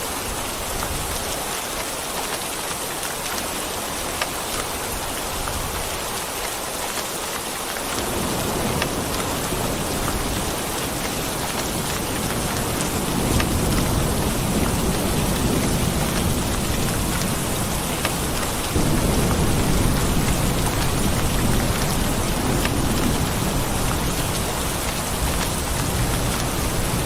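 Steady rain, with a low rumble of thunder that comes in about a third of the way through and swells twice.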